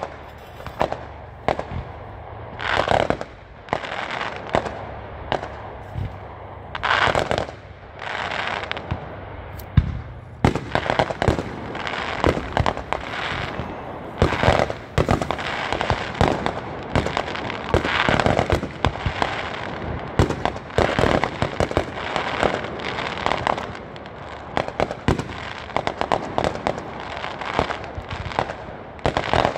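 Fireworks going off: repeated bangs with crackling stars, sparse at first, then a near-continuous run of sharp bangs and crackle from about a third of the way in.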